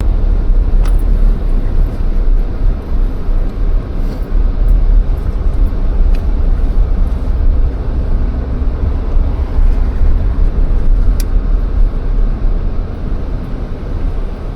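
Jeep driving on the road: a steady, loud rumble of road and engine noise, heaviest in the low end, starting abruptly.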